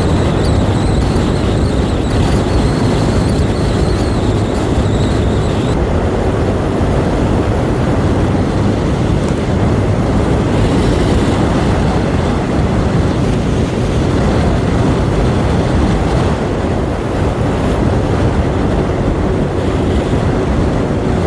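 Steady rush of wind and road noise from riding a 125 cc learner motorbike, the engine running under the wind on the microphone. A faint high whine stops about six seconds in.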